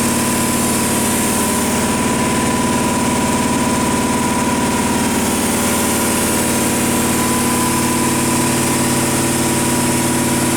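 Air compressor running steadily: a constant motor hum with a thin whine above it. The operator is waiting for it to shut off before starting the machine's cycle.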